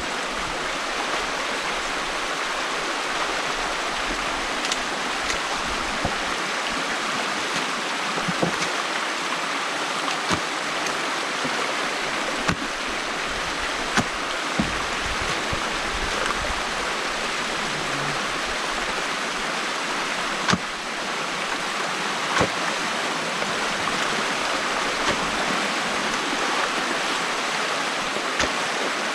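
Water rushing steadily through a breach opened in a beaver dam, with a few short, sharp knocks scattered through it.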